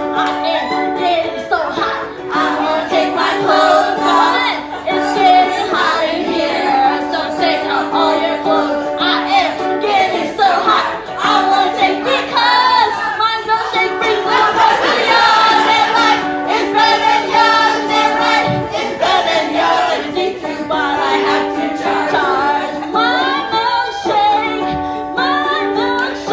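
Singing of a hip-hop sing-along medley over a backing track, with a held low note that repeats every few seconds and other voices joining in.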